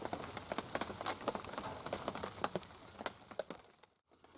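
Heavy rain falling, with many irregular drops pattering over a steady hiss; the sound drops out briefly near the end.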